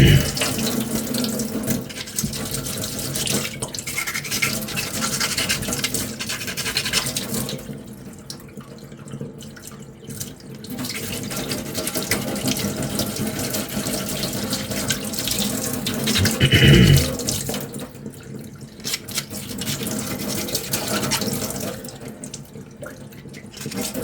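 Hand sanding with coarse-grit sandpaper on a putty-primed armour ring: a scratchy, scrubbing rubbing noise that stops for a few short pauses. There is one brief louder noise about two-thirds of the way through.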